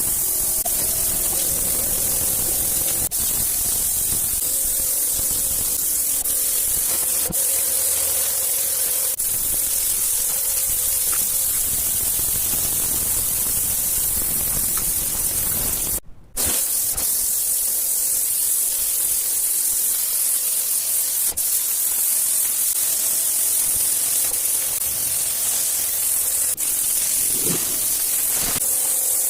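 WAP Combate Turbo 2600 electric pressure washer spraying a steady, loud hissing jet of water over the hum of its motor. It breaks off for a moment about sixteen seconds in, then carries on.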